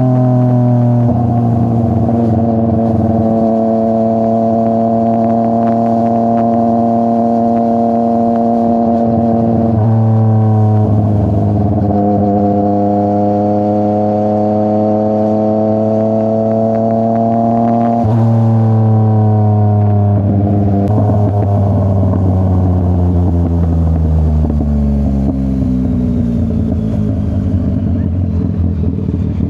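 Yamaha MT-09's three-cylinder CP3 engine running through a full Akrapovič exhaust while riding, holding a fairly steady pitch with sudden shifts at gear changes about a second in, then around ten and eighteen seconds in. From about twenty seconds in the pitch falls gradually as the bike slows on the throttle.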